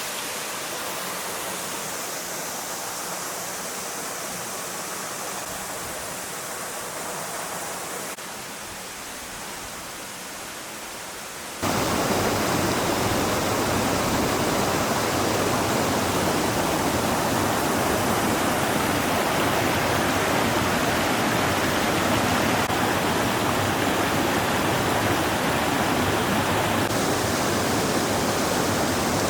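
Floodwater rushing as a steady, even noise of fast-flowing muddy water from a river that has overflowed. About twelve seconds in it suddenly becomes louder and fuller.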